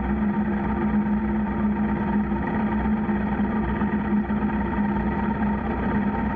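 Motorcycle engine running at a constant speed, a steady unchanging drone.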